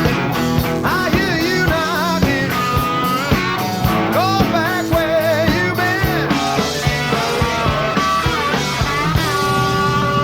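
A live rock band plays an instrumental passage: electric lead guitar bending notes with vibrato over a steady drum beat, bass and rhythm guitar.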